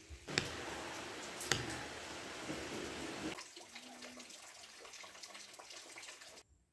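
Rain falling, with single drops striking sharply now and then; louder for the first three seconds or so, then softer, and it cuts off just before the end.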